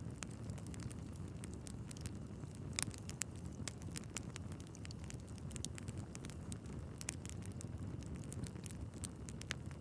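Wood fire burning in a fireplace: a steady low rumble of flames with frequent irregular crackles and pops of the logs, a few sharper pops standing out.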